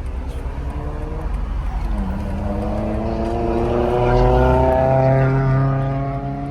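A car engine accelerating: its pitch climbs steadily for a couple of seconds, then holds and eases off slightly near the end.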